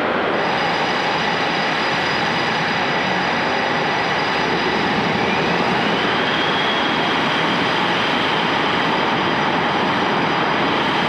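Boeing F/A-18 Super Hornet jets' turbofan engines running at taxi power: a loud, steady rush with high whining tones over it, one whine rising in pitch about five seconds in.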